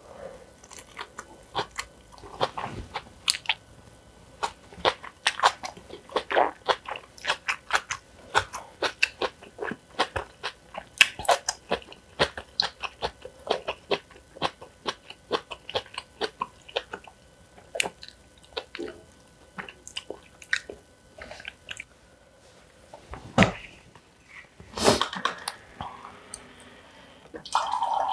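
Close-miked chewing and crunching of food in the mouth: a quick, irregular run of small wet clicks and crisp crunches, then a few louder knocks near the end.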